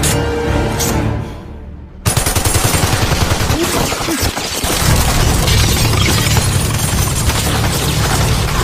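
Film soundtrack: the music dies down, then about two seconds in sustained rapid machine-gun fire starts abruptly and goes on, with the score running underneath.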